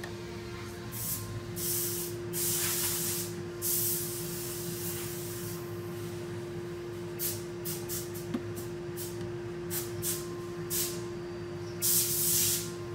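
Repeated bursts of spraying hiss: a few last about a second, many are short and quick, and the longest comes near the end. A steady low hum runs underneath.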